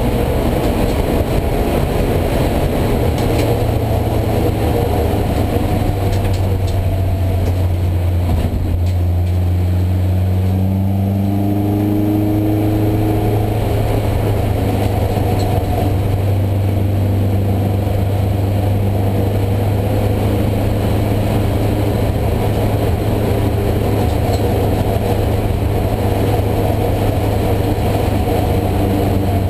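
Race car's engine heard from inside the stripped, roll-caged cabin, running hard at speed under a steady load. About eight seconds in the note dips briefly, then climbs in pitch as the car accelerates again.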